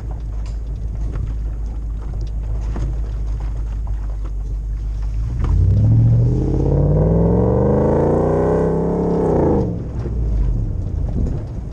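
Toyota Land Cruiser 100 series' 2UZ-FE 4.7-litre V8 through a full exhaust: a low steady rumble, then about halfway in it accelerates, revs climbing for about four seconds before dropping away suddenly back to a low rumble.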